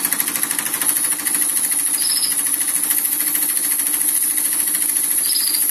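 Märklin model vertical steam engine running fast, with a rapid, even beat of small chuffs over a steady high hiss of steam.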